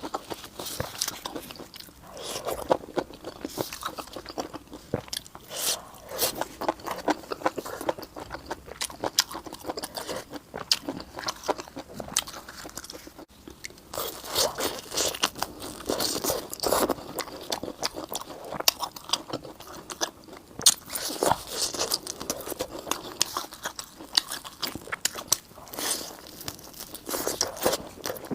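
Close-miked eating: crunchy bites and chewing, a dense run of irregular crackling clicks with a brief pause about halfway through.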